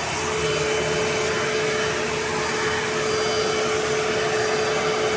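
Vacuum motor running steadily: a constant rush of air with a steady whine, as used in cleaning lint out of a dryer vent.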